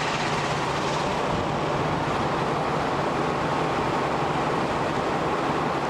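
Diesel-hydraulic locomotive running steadily, a low engine hum under an even wash of noise.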